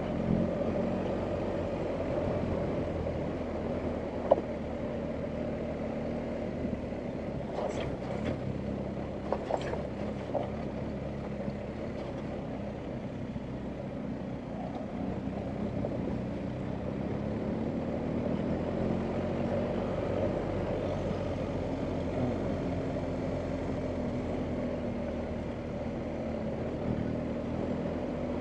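2021 BMW R1250GS Adventure's boxer-twin engine running at low revs on a rough off-road track, its pitch rising and falling gently. A sharp knock about four seconds in and several more around eight to ten seconds in stand out over the engine.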